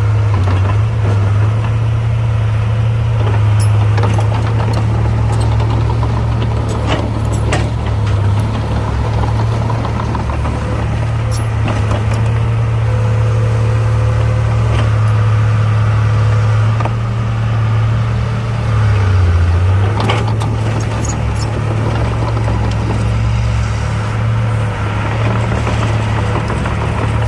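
Heavy diesel construction machinery running steadily with a deep, constant engine hum, and a few sharp metallic clanks here and there.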